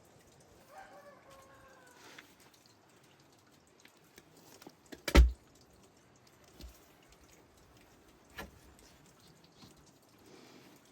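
A single sharp knock a little past the middle, loud against an otherwise quiet background, with a short pitched call about a second in and two faint clicks near the end.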